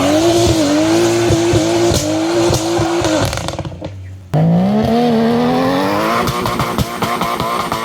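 Modified car engines accelerating hard, their pitch climbing and then holding high. About four seconds in the sound cuts off abruptly and a second car's engine climbs in pitch.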